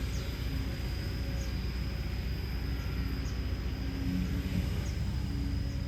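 Hino J05E-TG four-cylinder turbo-diesel engine of a Kobelco SK210LC excavator running steadily, with no change in speed.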